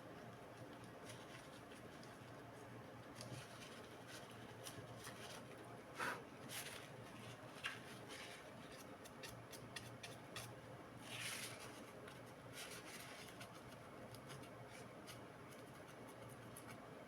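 Faint scattered clicks and short scrapes of small parts being handled, over a low steady hum, with a louder scrape about six seconds in and another about eleven seconds in.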